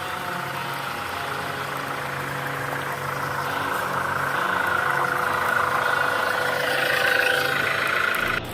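Electric motor and gearbox of an MN78 RC Jeep Cherokee running with a steady whine that grows louder over the last few seconds, then cuts off abruptly near the end.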